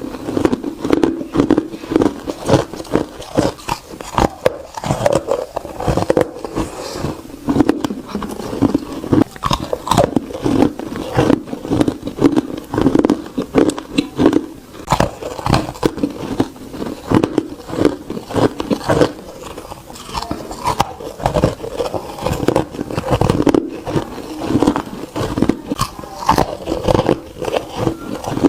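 Ice being bitten and crunched between teeth: a steady, rapid run of crisp crunches, several a second.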